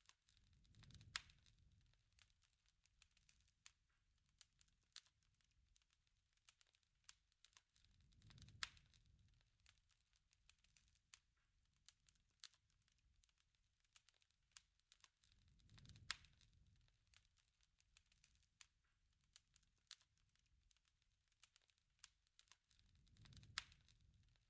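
Campfire crackling quietly: scattered sharp pops and snaps, with a soft low rumble swelling up about every seven and a half seconds, each swell bringing the loudest pop.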